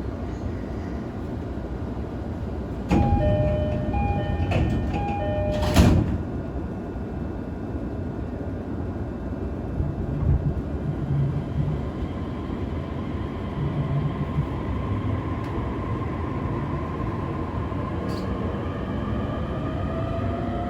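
Door chime of an E531 series electric train, a repeated two-note pattern for about three seconds, then the doors slide shut with a thud. Later the Hitachi IGBT VVVF inverter starts up and a rising whine begins near the end as the train pulls away.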